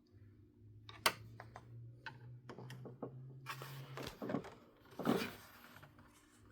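Small clicks and scraping of a screwdriver working at a screw in the underside of a plastic toy car, with one sharp click about a second in and rustling handling noises later; the tip is not getting purchase on the screw. A steady low hum runs underneath.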